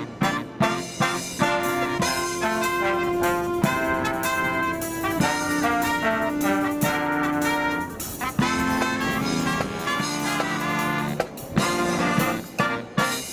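Marching brass band playing live: trumpets and trombones holding and moving through sustained melody notes, punctuated by sharp drum strokes.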